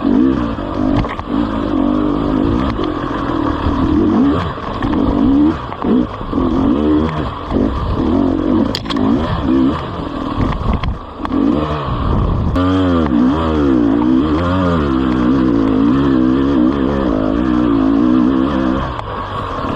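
GasGas EC 300 two-stroke enduro motorcycle engine heard from on the bike, its revs rising and falling over and over as the throttle is worked on a rocky, wet trail, with quick up-and-down revving about thirteen seconds in. The engine dips briefly around eleven seconds, and the bike clatters over stones.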